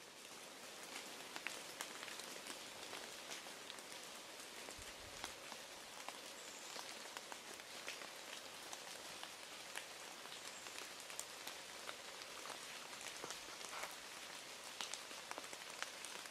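Light rain falling: a faint, steady hiss with many small, irregular drop ticks.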